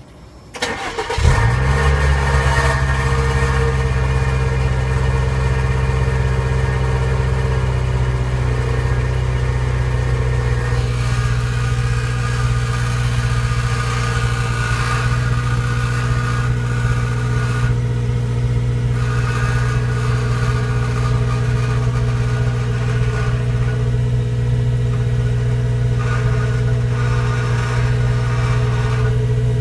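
Car engine cranks and starts about a second in, then idles steadily through a used Ganador aftermarket muffler. The muffler is giving off an abnormal ringing noise (異音).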